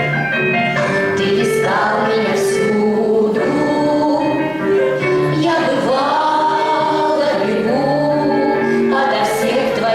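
A choir of several voices singing a song together over instrumental accompaniment, continuing without a break.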